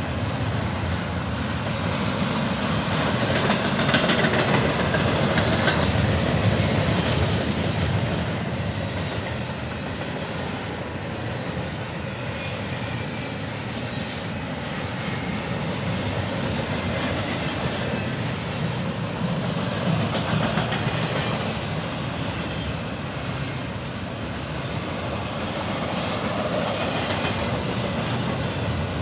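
Double-stack intermodal freight cars rolling past at speed: a steady noise of steel wheels running on the rails.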